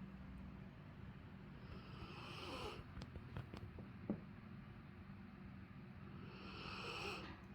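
A sleeping Rottweiler snoring softly, with two slow snoring breaths about four seconds apart. A few faint clicks and one short, sharp sound come between them.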